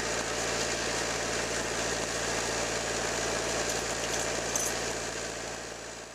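Toyota 2L four-cylinder diesel idling steadily with an even clatter. Near the end it begins to die away, as when the engine is switched off.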